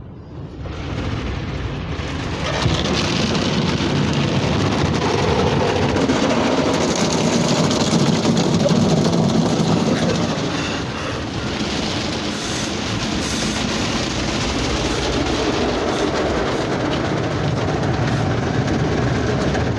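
Ryko SoftGloss XS 2 rollover car wash brushes spinning and scrubbing over the car, a dense steady wash of cloth and water noise that builds up about two seconds in.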